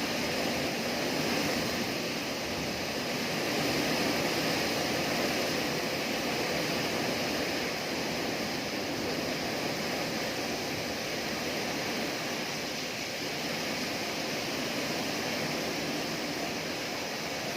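Rainstorm with wind: heavy rain making a steady, even rushing noise.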